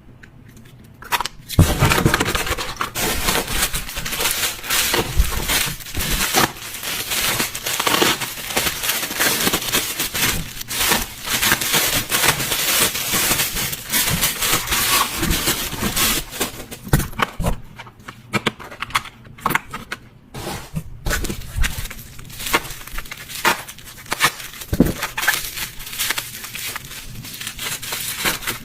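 Packaging being torn open and crumpled: a dense run of rustling and crackling that starts about a second and a half in and goes on unevenly, with many small sharp crackles.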